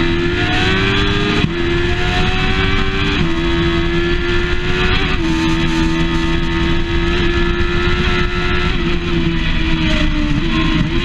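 Onboard sound of a race motorcycle's engine at racing speed, with the rush of wind. The revs climb and step through quick gear changes about one and a half, three and five seconds in, hold steady, then ease off briefly near the end.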